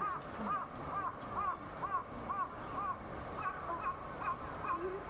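A bird calling a regular series of short arched notes, about two a second, which turn shorter and quicker about three and a half seconds in.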